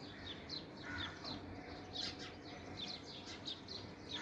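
Faint bird chirping: a quick run of short, high, falling notes, a few each second.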